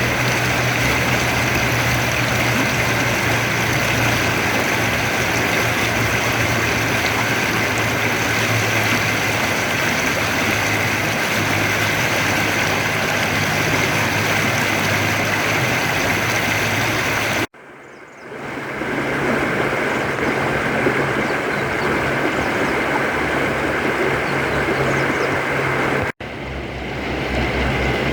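Steady rushing of river water, with a low hum underneath. It cuts out suddenly twice, about two-thirds of the way in and again near the end, coming back each time within a second or two.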